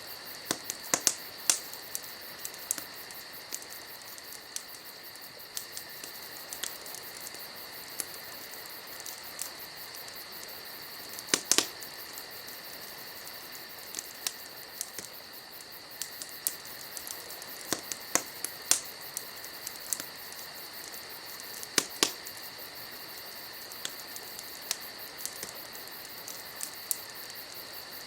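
Wood fire crackling, with irregular sharp pops and small clusters of snaps, over a steady high insect trilling.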